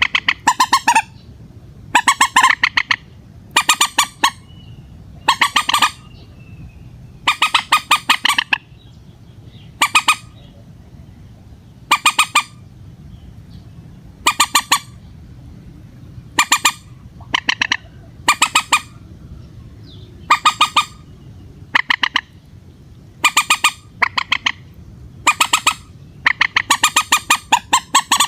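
Common moorhen calling repeatedly: short harsh rattling calls, each a quick train of clicks, coming about every one to two seconds, some in close pairs.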